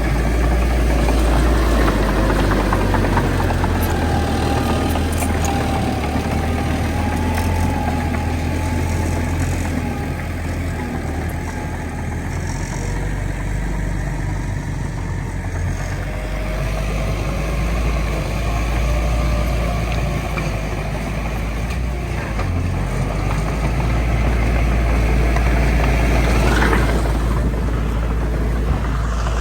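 Heavy earthmoving machinery's diesel engine runs continuously with a deep rumble. Its pitch wavers as the load changes, and a brief rising whine comes near the end.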